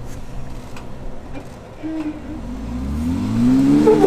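Off-road Jeep engine running low, then revving up over the last second and a half, its pitch climbing to a peak near the end as it climbs.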